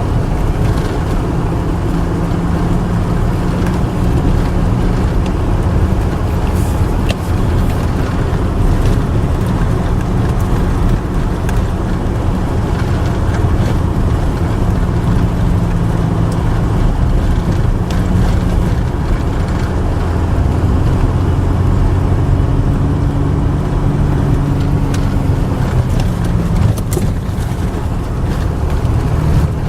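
A car driving at a steady pace: a continuous low engine hum over road noise.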